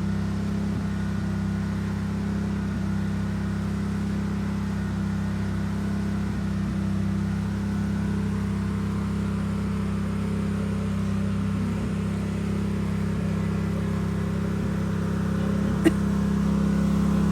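An engine running steadily, a low even hum that holds the same pitch throughout, with a single sharp click near the end.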